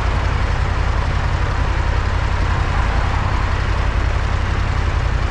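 Motorcycle engine running steadily, under a loud, even wind rumble on a helmet-mounted camera.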